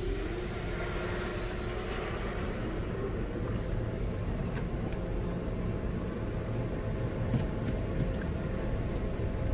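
Touchless car wash heard from inside the car: a hiss of spray from the Belanger Vector fades out over the first three seconds, leaving a steady low rumble with a few faint ticks.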